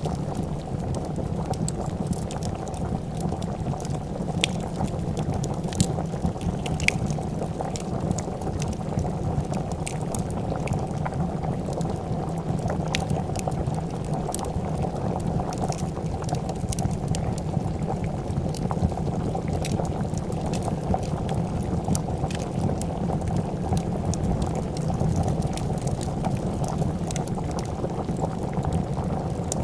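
A pot of soup bubbling at a steady boil, with scattered sharp pops and crackles from a wood fire.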